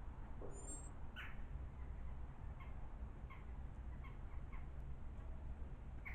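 Small garden birds calling in a series of short chirps, repeated every half second or so, with a few thin high whistles about half a second in, over a steady low rumble.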